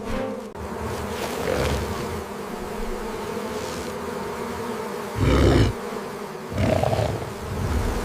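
A swarm of bees buzzing steadily, with two louder, deeper swells of the buzz about five and seven seconds in.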